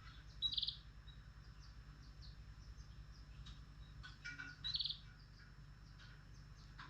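Pet lovebirds chirping: two loud, short, high calls, one about half a second in and one near five seconds, among soft scattered chirps, over a steady low hum.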